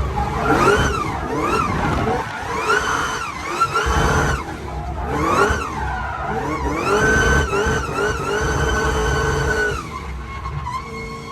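A car engine revving hard, its pitch sweeping up and down again and again. It is then held high for a few seconds and drops to a lower, steady running note near the end.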